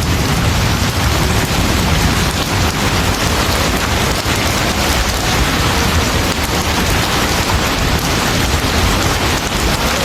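Steady heavy rain pouring, an even hiss with a constant low rumble beneath it.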